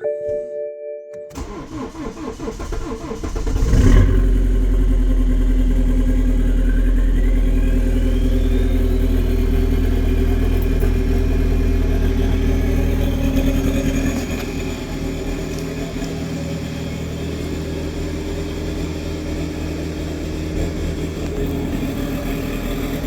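BMW E91 320d's four-cylinder turbodiesel being cold-started: a chime stops about a second in, the starter cranks for about two and a half seconds, and the engine catches about four seconds in. It then runs at a fast cold idle that eases down slightly about fourteen seconds in, with a faint whine rising in pitch during the first seconds of running.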